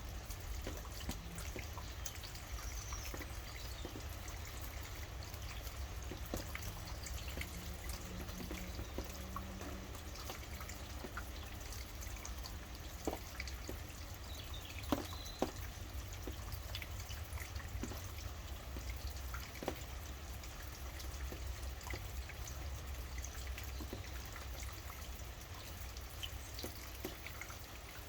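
Steady rain with drops dripping and pattering irregularly, a few drips standing out louder. Faint short bird chirps come through twice.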